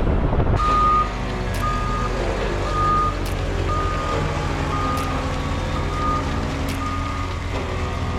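A vehicle's backup alarm beeps steadily about once a second, seven beeps, over the low running of an engine. The first half-second is wind on the microphone.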